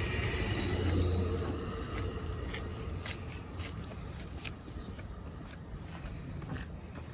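Commuter train moving away, its low rumble fading steadily, with scattered sharp clicks as it recedes.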